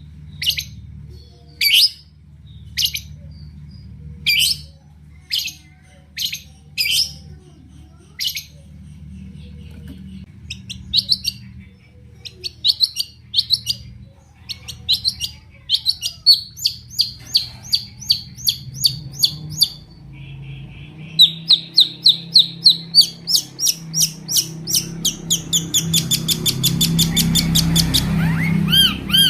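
A long-tailed shrike (cendet) singing. It opens with sharp single calls about once a second, then breaks into quick chattering runs that grow denser and faster in the second half.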